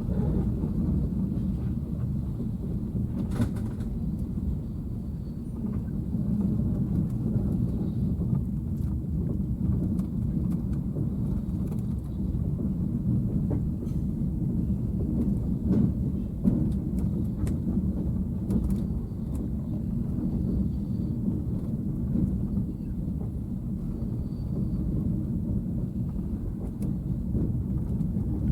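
Steady low rumble of a KTM sleeper train's carriage running on the rails, heard from on board, with a few faint clicks and knocks.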